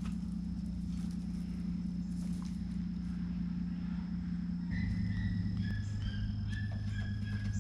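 A steady low mechanical hum that drops suddenly to a lower pitch a little past halfway, with a thin high steady whine above it and short flat chirps near the end.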